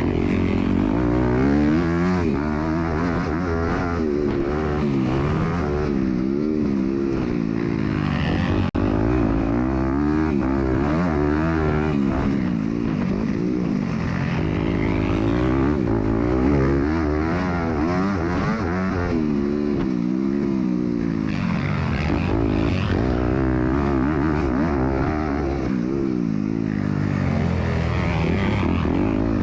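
MX2 motocross bike engine heard on board, revving up and falling back again and again as the rider accelerates, shifts and brakes around the track. There is a brief dropout about nine seconds in.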